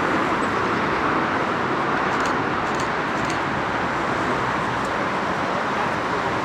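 Steady jet-engine noise from an Airbus A330-200, an even rushing sound with no distinct whine, holding a constant level.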